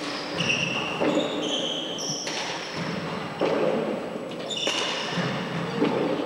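A four-wall handball rally: the ball smacks off the walls and hands about once a second, with short high-pitched sneaker squeaks on the court floor in between. The sound echoes around the enclosed court.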